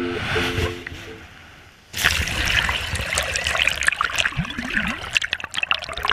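Ukulele music fades out in the first second, then about two seconds in water starts splashing and trickling steadily, with many small crackling splashes.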